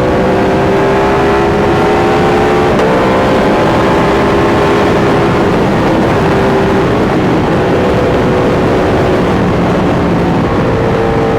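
Sport motorcycle engine running hard at highway speed, its pitch drifting up and down slightly with a short break about three seconds in, over a steady rush of noise.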